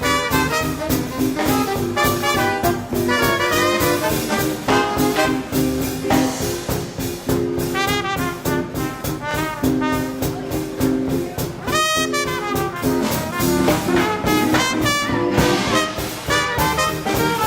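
Live swing band playing a 1940s-style instrumental: brass section of trumpets, trombone and saxophone over a steady driving drum beat.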